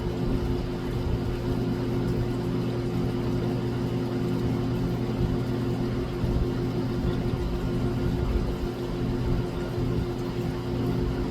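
A steady mechanical hum with several fixed low tones, even in level throughout.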